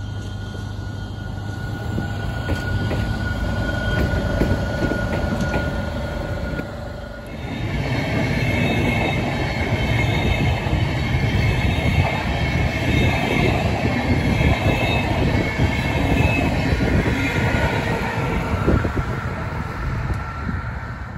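A red track inspection car runs along the tracks with a steady low hum and a few knocks. After a short drop, a double-deck InterCity train's coaches roll past, loud rail rumble with wheels squealing, ending with its electric locomotive passing.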